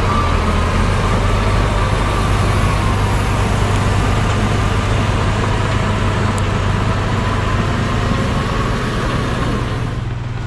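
Heavy earthmoving machine's diesel engine running steadily under work, a deep rumble with a faint wavering whine above it. The sound drops and changes abruptly near the end.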